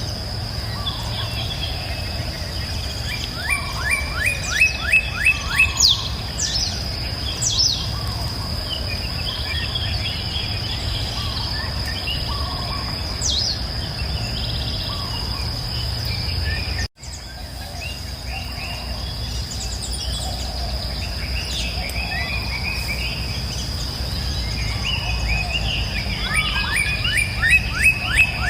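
Songbirds singing and chirping, with a fast run of repeated notes twice, over a steady high-pitched insect drone. About two-thirds of the way through, the sound drops out for an instant.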